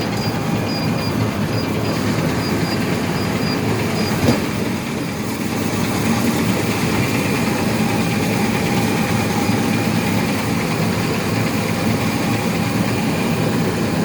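Steady din of an Acros 585 combine harvester heard inside its cab, its Cummins engine and threshing machinery running. A short high beep repeats through the first four seconds, the cab warning that the cleaning-fan speed is below the permitted level. One knock comes about four seconds in.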